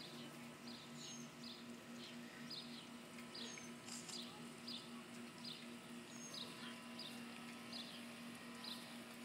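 Faint outdoor chirping: a steady series of short high chirps, about two a second, with an occasional higher, falling note. A low steady hum lies underneath.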